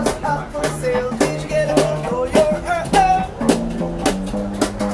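Live band music from two performers: a voice singing a melody over guitar, with regular drum hits keeping a steady beat.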